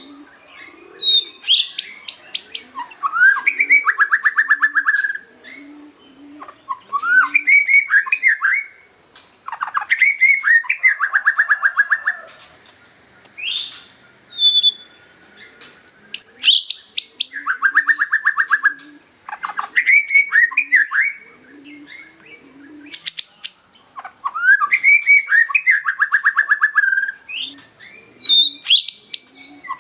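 A young white-rumped shama, just out of juvenile plumage, sings its basic song in repeated phrases every three to four seconds. Each phrase is a few quick whistled slurs followed by a fast, rattling trill lasting about a second.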